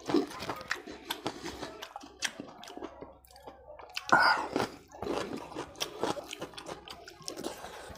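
Close-miked chewing and wet mouth clicks of a person eating rice and fish curry by hand, with a louder wet burst about four seconds in as a handful of rice goes into the mouth.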